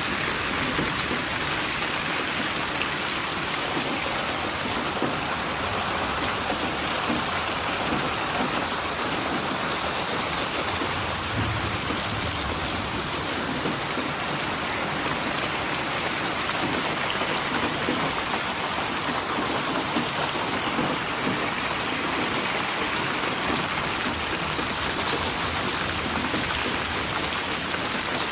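Steady rain falling and pattering on surfaces, an even hiss with fine drop ticks, with a brief low rumble about halfway through.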